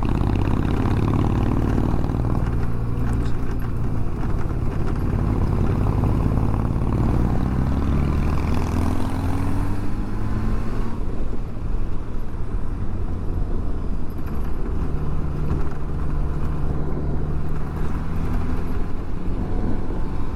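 Motorcycle engine running under way, with road and wind noise; its pitch rises as it pulls between about 6 and 10 seconds in, then it eases off suddenly about 11 seconds in.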